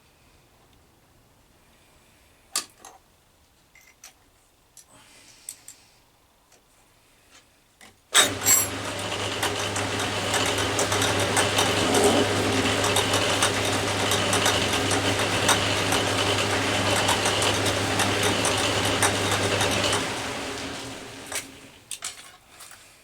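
Atlas 10 metal lathe switched on about 8 seconds in, running steadily with a low motor hum and a busy mechanical whirr, then switched off about 20 seconds in and spinning down. Before it starts there are a few light clicks and knocks of handling.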